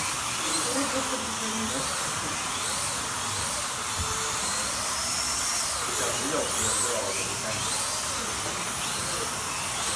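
Slot cars' small electric motors whining around the track over a steady hiss, the whine rising and falling again and again as cars accelerate down the straights and brake for corners. Faint voices underneath.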